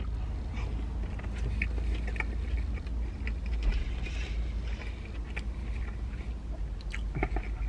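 Chewing of crunchy tortilla-chip-coated chicken bites, small crackles and clicks over a steady low rumble.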